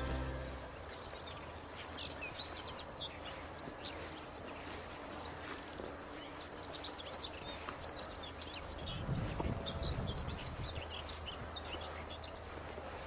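Small birds chirping and twittering over a steady outdoor background hiss. A brief low rumble swells and fades about nine seconds in.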